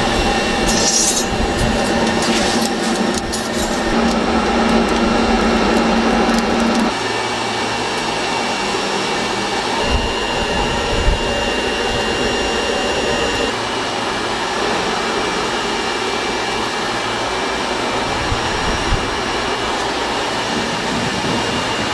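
Steady running noise of workshop machinery, with a low hum that cuts off about seven seconds in, a few light clinks near the start and a brief thin whine midway.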